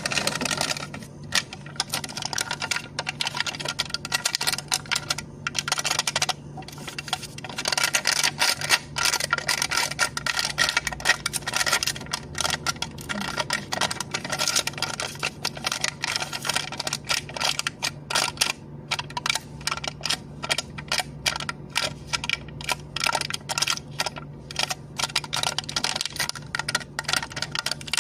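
Cup lid being tapped and clicked close to the microphone in a quick, dense run of small clicks, with a few short pauses, over a faint steady hum.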